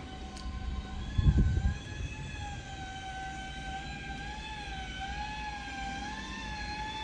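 Sewage suction truck running with a low rumble under a steady, slightly wavering high whine, and a loud low thump about a second in.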